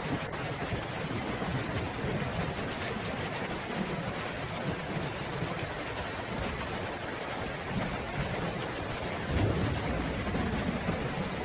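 Steady rain pouring, an even hiss, with low rumbling thunder underneath that swells about nine and a half seconds in.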